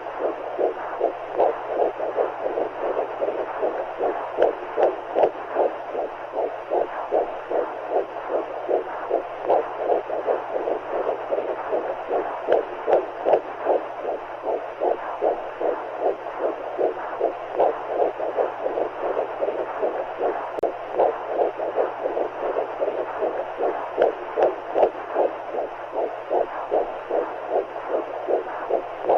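Womb sound for soothing a baby: a whooshing, muffled rush of fluid noise with a heartbeat pulsing through it a little over twice a second, like the mother's and baby's heartbeats heard from inside the womb.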